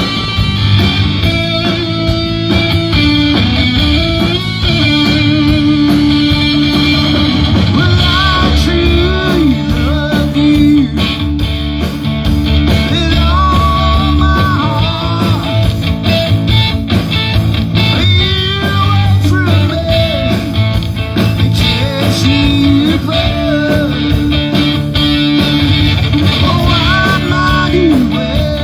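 Live rock band playing: an electric lead guitar with bent, sliding notes over bass guitar and drums.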